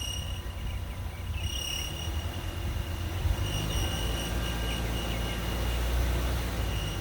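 2015 Ram's 3.6 Pentastar V6 running with a high-pitched squeal over the low engine rumble; the squeal drops out about a second in, comes back briefly, then holds steady for the last three seconds or so. The owner has ruled out the belt, idler pulley and belt-driven accessories as its cause.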